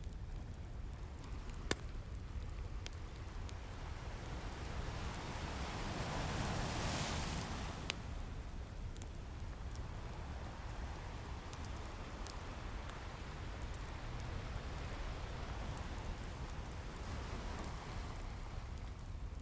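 Ocean waves washing on a beach, one wave swelling and breaking about six to seven seconds in, over a low steady rumble. A fireplace crackles throughout with scattered small pops, two sharp ones about two seconds in and near eight seconds.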